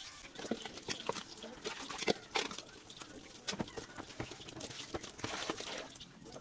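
Kitchen clatter while cooking: irregular clicks and knocks of utensils and cookware, with a brief hiss a little after five seconds in.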